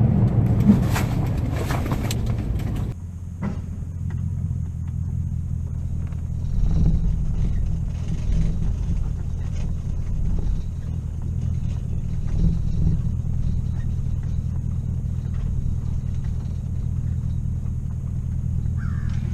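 A vehicle engine running steadily with a low drone, with some louder noise across the range in the first few seconds.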